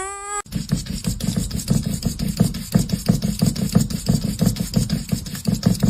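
A cat's rising, drawn-out meow breaks off just after the start. It is followed by loud, fast, continuous purring, low and pulsing, close to the microphone.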